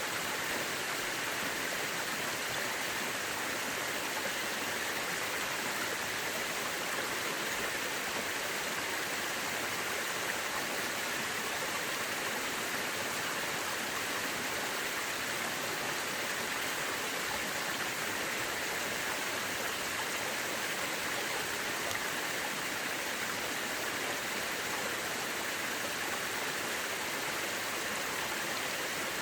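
Mountain river rushing over rocks: a steady, even rush of water with no breaks.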